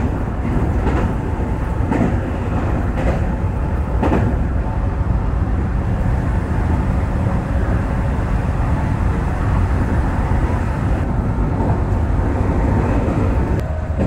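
Electric train running, heard from inside the front car: a steady rumble of wheels on rail, with the wheels clacking over the track about once a second in the first few seconds.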